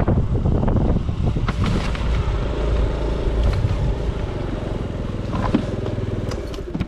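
Delivery motor scooter running while being ridden, with wind buffeting the microphone in a steady low rush.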